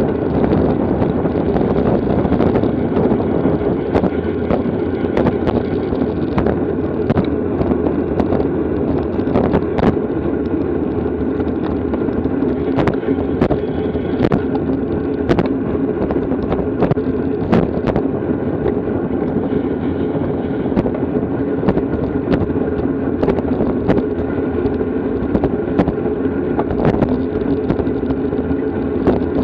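Steady rush of wind on the microphone mixed with a road bike's tyre and drivetrain noise at race speed, with sharp clicks scattered irregularly through it.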